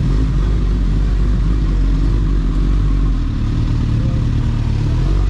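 Superbike engine running steadily, with a deep, even low rumble.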